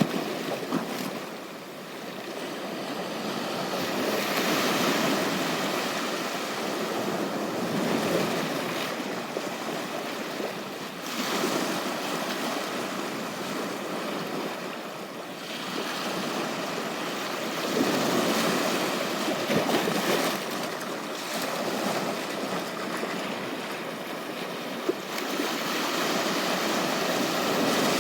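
Ocean surf breaking and washing up a beach, swelling and fading every few seconds.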